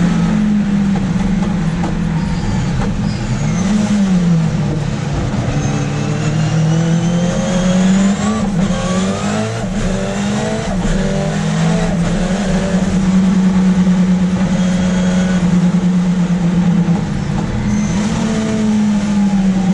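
Ford Escort RS Cosworth's turbocharged four-cylinder race engine heard from inside the car at speed on track. Its note holds steady, dips briefly twice and climbs in pitch through the middle as the car accelerates.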